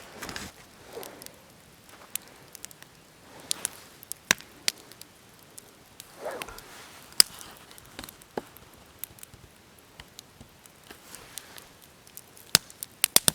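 Wood campfire crackling: irregular sharp pops and snaps, a few louder ones scattered through, the loudest near the end.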